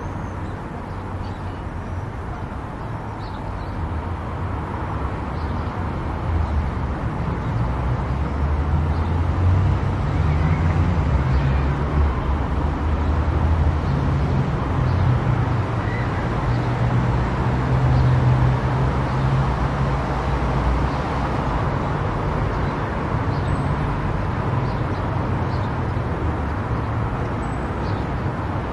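Car driving at speed on an expressway: a steady low rumble of engine and tyre road noise that grows louder about four seconds in and eases slightly near the end.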